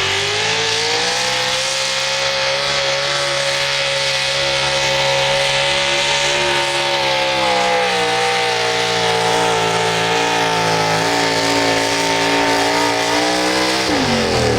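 A pulling tractor or truck engine held at high revs under full load. The pitch climbs in the first second or two, stays high, and falls off sharply near the end as the throttle comes off.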